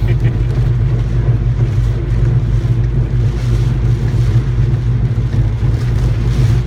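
Steady low drone of a car being driven, with engine and tyre noise heard from inside the cabin.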